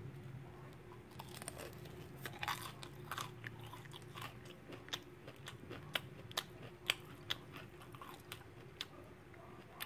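Crispy breaded fried chicken strip being bitten into and chewed, the crust crunching in irregular crackles and clicks.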